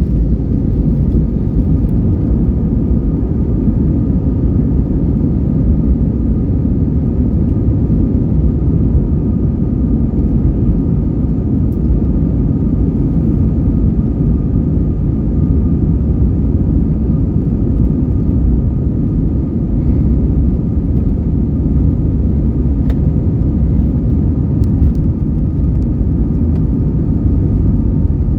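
Airbus A320's IAE V2500 turbofan engines running steadily at takeoff thrust, heard inside the cabin: a loud, even rumble with a steady high fan whine on top.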